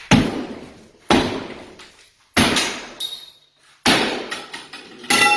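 Hammer blows smashing into a sheetrock wall: five heavy strikes about a second apart, each with a crunching decay. The last strike, near the end, is followed by a ringing tone.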